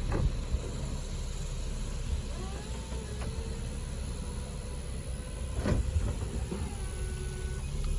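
2014 Infiniti Q60's retractable hardtop closing: a faint mechanism whir with a clunk just after the start and another about six seconds in, over a steady low engine rumble.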